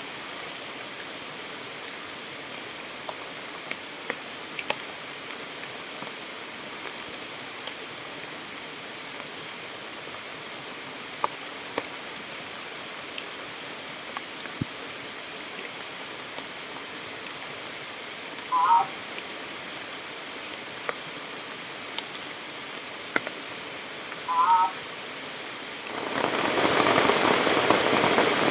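Steady hiss of rain and rushing water, with scattered small ticks and two short warbling calls. About 26 seconds in, a much louder rushing noise sets in and holds.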